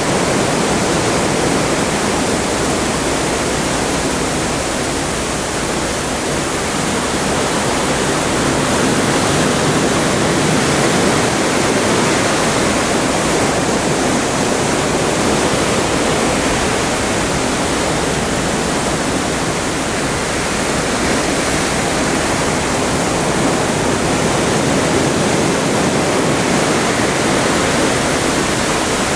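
Open Atlantic seawater rushing along a moving cruise ship's hull: a steady, loud rush that swells and eases slowly.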